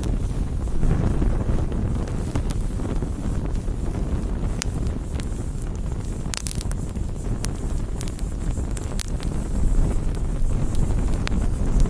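Wood campfire crackling: scattered sharp pops and snaps, a cluster of them about six and a half seconds in, over a steady low rumble.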